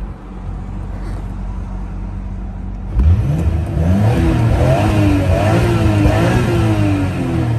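Nissan Skyline GT-R R34 V-spec's RB26DETT twin-turbo straight-six, fitted with a NISMO NE-1 exhaust, idling and then free-revved hard about three seconds in, the pitch climbing and falling several times in quick succession up to around 6,500 rpm. Heard from inside the cabin.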